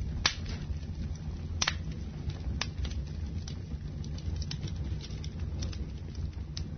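Wood fire burning in a fireplace: irregular sharp crackles and pops, the loudest two near the start, over a steady low rumble of the flames.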